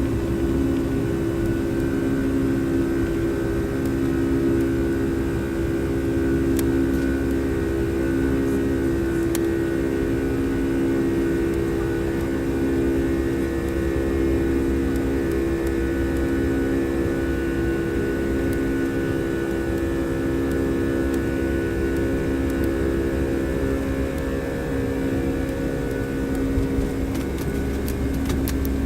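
Boeing 737 jet engines running steadily at takeoff thrust, heard from inside the cabin as a loud rumble with a steady drone over it.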